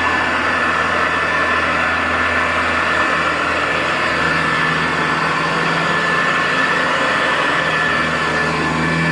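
Hoover U4007 upright vacuum cleaner running steadily on carpet, its motor drone and fan whine holding an even pitch and level.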